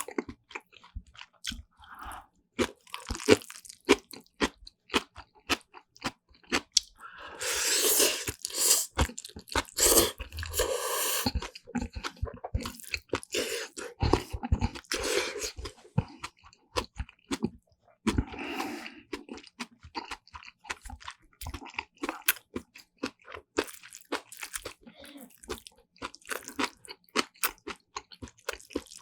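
Close-miked eating sounds of Chapagetti black bean noodles with kimchi and other side dishes: wet chewing and crunching, full of small sharp clicks. There are denser, longer stretches about a quarter of the way through and again near the middle.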